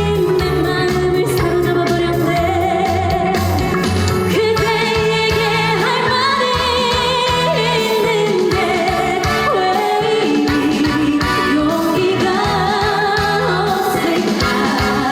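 A woman singing a trot song over backing music with a steady bass line, her long notes held with vibrato.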